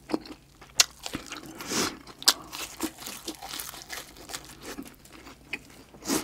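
Crisp crunching as a breaded deep-fried shrimp is bitten and chewed close to a lapel mic. There are many small crackles, with two sharp loud crunches about a second in and a little past two seconds.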